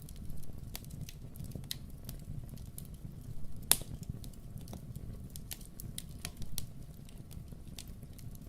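Wood fire in a fireplace crackling, with irregular sharp pops over a steady low rumble; one louder pop comes near the middle.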